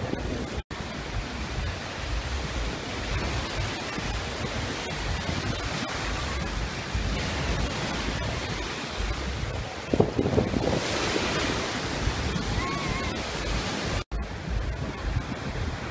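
Surf washing on a beach with wind buffeting the microphone, and one brief louder thump about ten seconds in.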